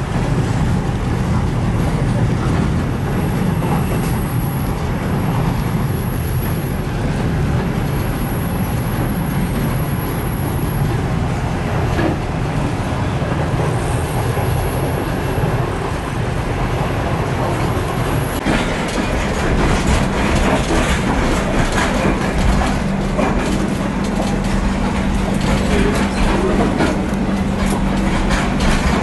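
Passenger train running along the track, a steady low rumble of wheels on rail. About two-thirds of the way through the sound changes, with more frequent clicks of wheels over rail joints and a steady low hum.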